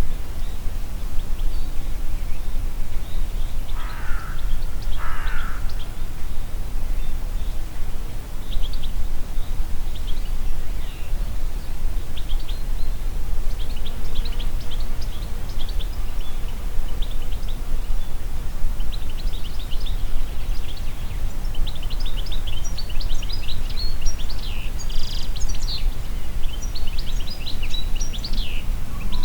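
Wind blowing steadily through a forest, with a constant low rush. Two harsher bird calls come about four seconds in, and small birds chirp and sing, growing busier in the second half.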